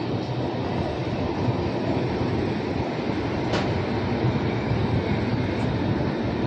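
A passenger train coach running on the rails, heard from its open doorway: a steady rumble, with one sharp click about three and a half seconds in.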